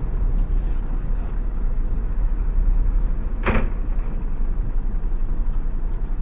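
A car driving: a loud, steady rumble of engine and road noise, with one brief sharp sound about three and a half seconds in.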